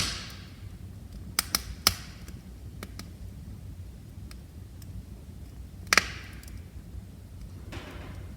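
Wood fire crackling in a fireplace: a sharp pop at the start and another about six seconds in, each trailing off in a short hiss, with a quick run of smaller cracks about a second and a half in, over a low steady rumble of the flames.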